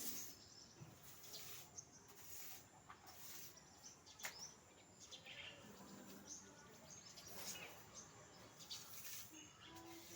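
Faint, scattered bird chirps over a steady background hiss.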